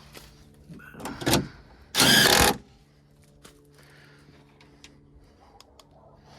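Two short whirs of a small electric motor: a brief one about a second in, then a louder one about half a second long, over a steady low hum.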